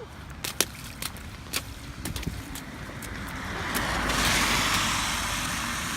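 A car passing on a wet road: its tyre hiss swells to a peak about four seconds in, then slowly fades. A few light taps come in the first two seconds.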